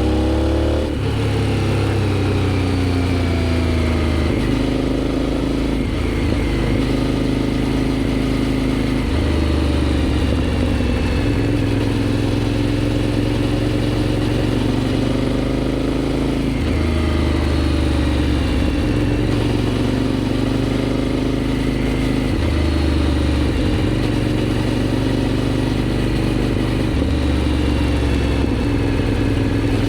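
Aprilia Shiver 750's V-twin engine under way through a GPR aftermarket exhaust. The revs climb and drop sharply about a second in at a gear change, then rise and ease off several times as the throttle is opened and closed.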